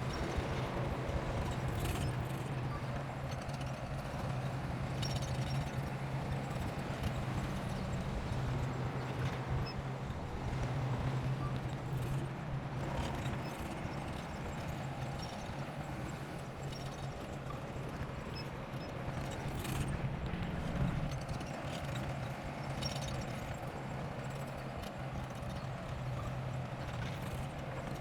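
Bulldozer's diesel engine running steadily under load, with scattered clanks and knocks from the tracks and the material being worked.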